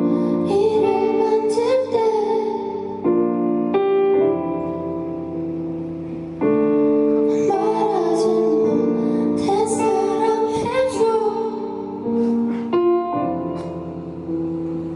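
A woman singing a slow song over sustained instrumental chords. She sings in phrases, with instrumental passages between them.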